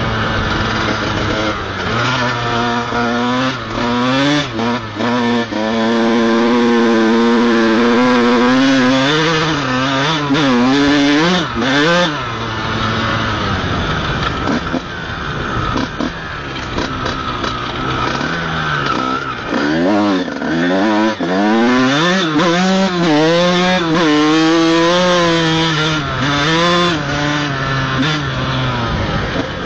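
Honda CR125 single-cylinder two-stroke motocross engine being ridden, its revs climbing and falling over and over: rising over the first few seconds and held high, dropping away about twelve seconds in, then climbing again in wavering surges later on. The bike is ridden slowly on a burnt clutch.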